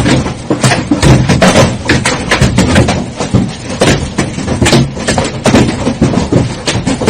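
Large hailstones pelting down, a dense, irregular clatter of many hard impacts over a low rumble.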